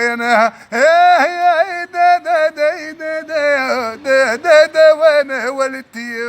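Male voice singing rakrouki, Tunisian folk song from the Kasserine region, in long melismatic phrases with wavering ornaments and held notes. A steady held note begins near the end.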